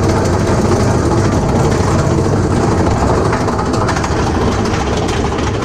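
Mine-train roller coaster cars running along the track, a loud steady rumble and rattle.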